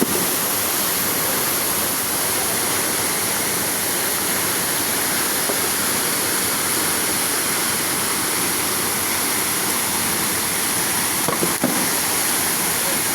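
Waterfall: a steady rush of falling water, with a brief knock near the end.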